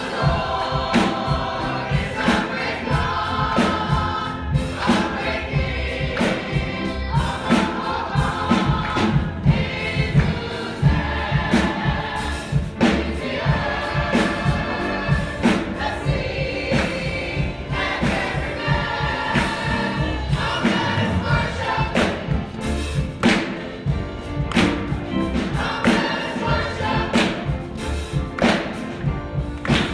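Congregation and choir singing a gospel song together, with a steady beat of drums or hand claps underneath.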